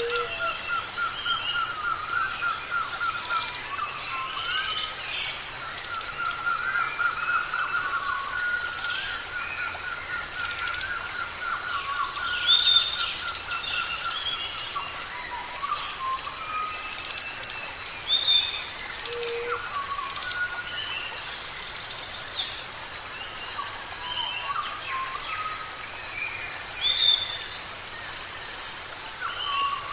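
Parrots chattering and chirping: many short high chirps and calls, with a rapid warbling trill through the first ten seconds or so. A thin, steady high tone runs from about 19 to 22 seconds in.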